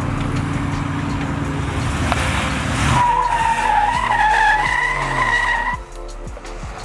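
Truck engine running hard at high revs; about three seconds in the tires break loose into a wavering, loud screech while the revs rise and fall — a burnout. The squeal cuts off near the end, leaving a quieter idle.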